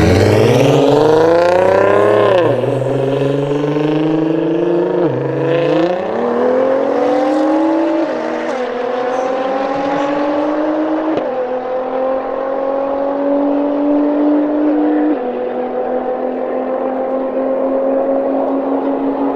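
Nissan GT-R R35's twin-turbo V6 accelerating hard through the gears. The engine note climbs, then drops suddenly at each of five upshifts, and climbs more slowly in each higher gear.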